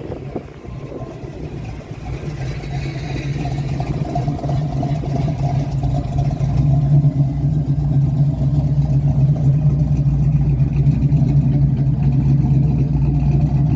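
Classic car's engine running as the car drives up, its low, steady note growing louder over the first several seconds and then holding steady close by.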